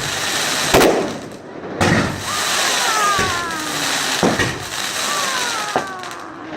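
Fireworks display: about five sharp bangs of bursting shells, with thin whistles sliding down in pitch between them, over a steady crackling hiss.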